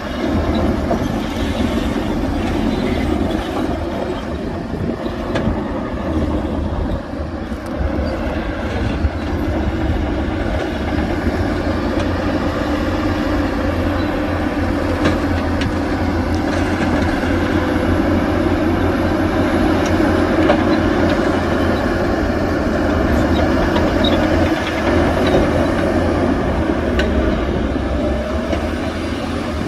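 Heavy diesel earthmoving machinery running steadily, a dump truck and bulldozer engine rumble with a few faint clanks.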